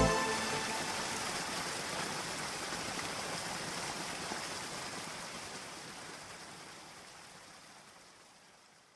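Steady hiss of rain, left over as the music ends, fading out gradually to silence.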